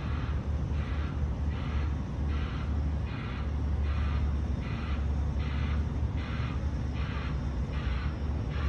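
A truck's reversing alarm pulses steadily about once every 0.8 seconds over the low, steady rumble of the semi-truck's diesel engine as it backs up.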